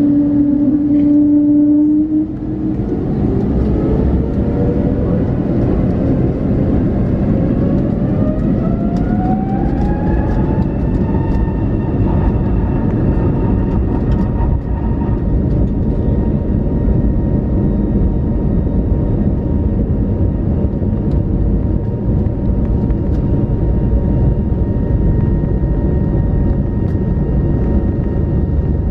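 Airbus A321neo jet engines spooling up to takeoff thrust, heard from the cabin. Their whine rises in pitch for about ten seconds, then holds steady over loud rumbling noise of the takeoff roll.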